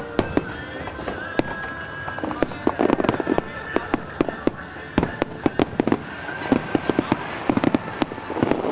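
Fireworks display: aerial shells bursting in a rapid, irregular string of sharp bangs. Dense crackling comes about three seconds in and again near the end.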